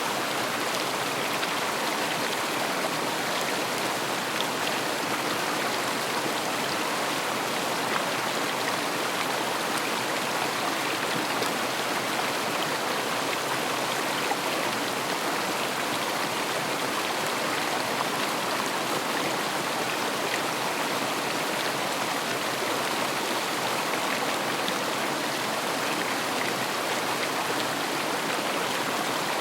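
River water flowing and splashing over stones in a steady, even rush.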